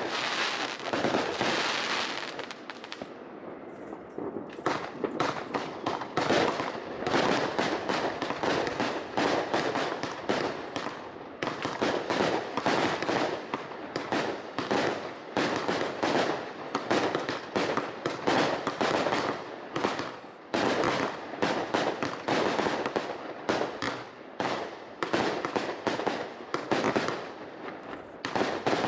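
Professional New Year's Eve fireworks display: a dense, continuous barrage of bangs and crackles as fireworks burst in rapid succession, with a brief hiss in the first few seconds.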